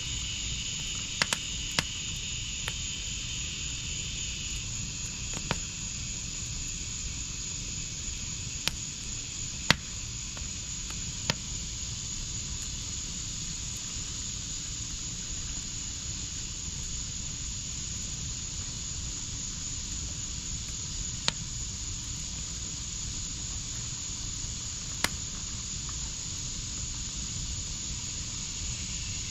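Wood fire in a backyard fire pit burning with a steady hiss and scattered sharp pops and crackles, the loudest pop about ten seconds in.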